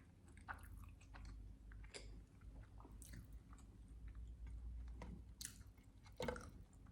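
Close-miked wet chewing of a sandwich with syrup: faint, irregular mouth smacks and sticky clicks, with a louder smack about six seconds in.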